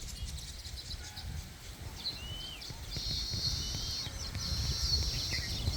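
Birds calling with short whistled chirps, some sliding up or down in pitch, over a high steady buzz that sets in about three seconds in. Low wind rumble underneath.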